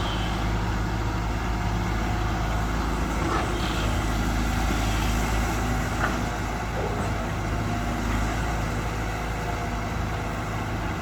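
Heavy diesel engines running steadily, with a constant low engine note. The sound is of an excavator loading a six-wheel dump truck at the pit.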